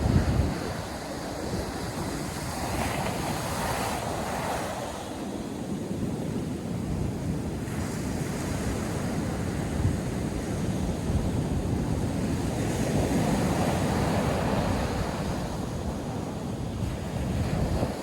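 Ocean surf breaking on a sandy beach in continuous swelling washes, with wind buffeting the microphone.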